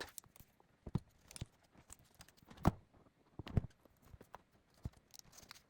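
Irregular light clicks and taps of tools and small parts being handled on a laptop under repair, the sharpest about two and a half seconds in.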